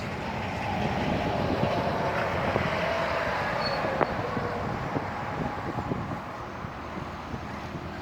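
Outdoor city ambience in a windstorm: a steady rushing noise with traffic, and a faint vehicle tone slowly falling in pitch as it passes.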